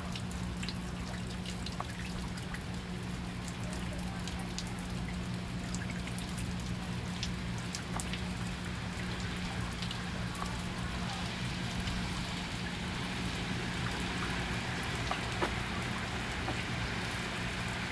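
Light rain and dripping water after a downpour: scattered drops ticking over a steady hiss, with a low hum underneath. The hiss grows louder in the second half.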